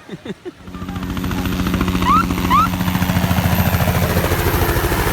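A loud engine starts up about half a second in and runs steadily with a fast, even throb. Two short rising chirps sound about two seconds in.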